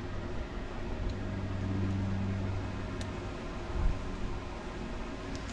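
Steady low machine hum over a background rumble, swelling a little between about one and two and a half seconds in, with one dull thump near the end.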